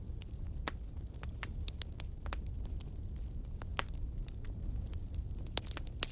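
Wood fire in a fireplace crackling, with irregular sharp pops and snaps over a low steady rumble of the flames; one louder pop near the end.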